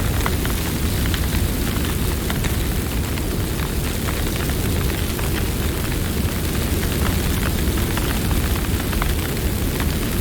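Campfire burning: a steady low rumble with frequent small crackles and pops from the burning wood.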